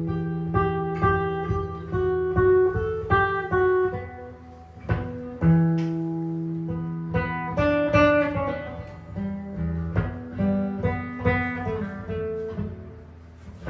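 Improvised solo jazz guitar: a line of plucked single notes and short chords over low bass notes that are let ring.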